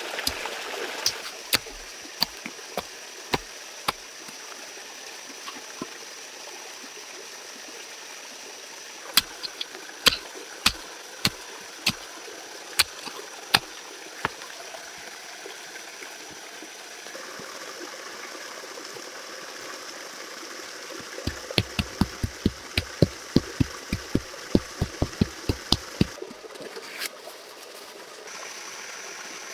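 Sharp knocks in groups, each a single hard strike: a few near the start, a run of about two a second in the middle, and a quicker run of about fifteen near the end. Underneath is steady running water.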